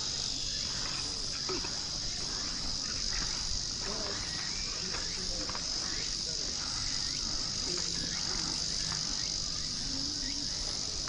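A steady, high-pitched chorus of summer insects, droning without a break.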